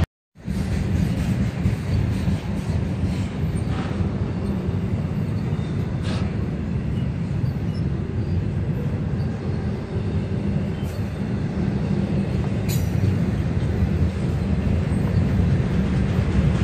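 Approaching diesel freight train, heard as a steady low rumble after a brief dropout at the very start.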